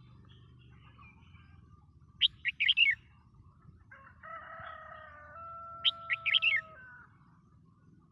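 Red-whiskered bulbul singing two short, quick phrases of bright chirping notes, a few seconds apart. Under the second phrase a lower, steady drawn-out tone sounds quietly for about three seconds.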